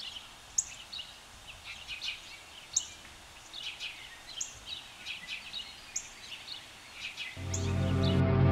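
Songbirds chirping, with quick trills and sharp high chirps every second or two. Music fades in near the end.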